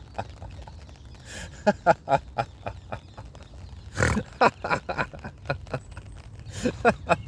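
A man laughing heartily in free-flow laughter-yoga style: three bouts of quick ha-ha-ha pulses, several a second, with short pauses between them.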